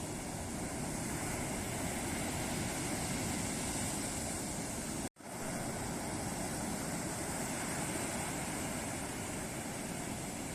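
Ocean surf breaking and washing ashore in a steady, continuous roar of waves, cut by a split-second gap of silence about halfway through.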